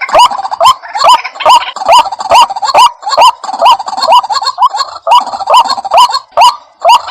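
White-breasted waterhen calling loudly over and over, about two harsh rising 'kruak' notes a second, with brief breaks between runs.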